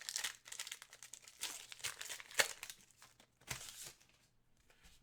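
Trading card pack wrappers crinkling and being torn open, with a few sharper crackles and snaps, the loudest about two and a half seconds in.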